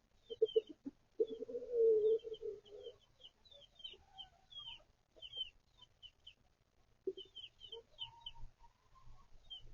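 Chicks peeping steadily in short high chirps while a hen clucks low, with a longer drawn-out hen call about a second in.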